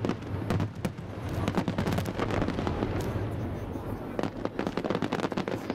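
Fireworks display going off: a dense, irregular run of bangs and crackling pops from aerial shells bursting.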